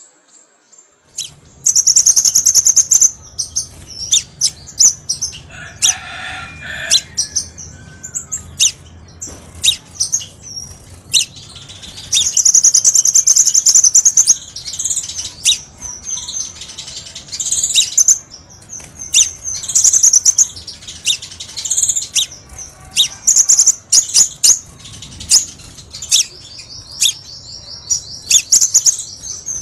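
Crimson sunbird singing: bursts of rapid, high-pitched chirps and trills, with a fast even trill near the end.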